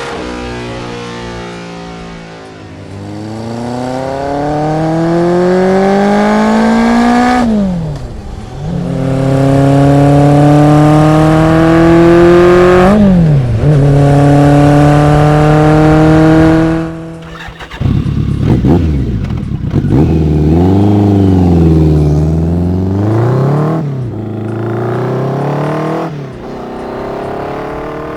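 Motorcycle engine accelerating through the gears: the pitch climbs, drops sharply at a gear change, climbs again, drops at a second change and then holds steady. Later an engine is revved up and down several times in quick blips.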